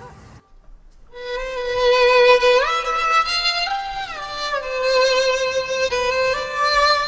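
Background music: a slow solo violin melody whose notes slide into one another, pausing briefly before picking up again about a second in.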